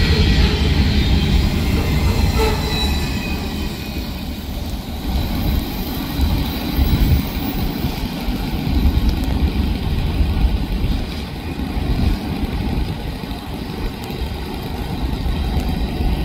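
Double-stack intermodal freight cars rolling past on the rails: a steady rumble and clatter of steel wheels. The higher-pitched sounds thin out after about four seconds as the last cars move away.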